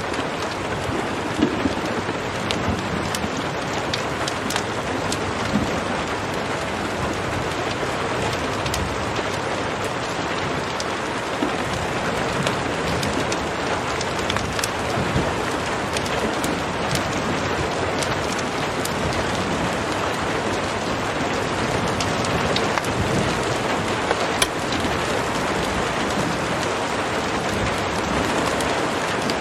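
Steady heavy rain with scattered sharp crackles and pops from a wood fire in a fireplace.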